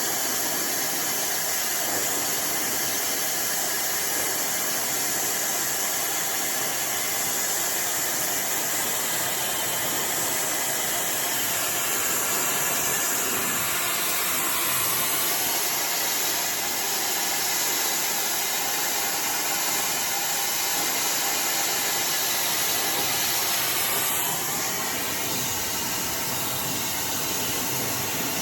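iDryer AI Pro Style hair dryer blowing steadily, a continuous airy rush; about three-quarters of the way through it drops slightly in level and its tone shifts.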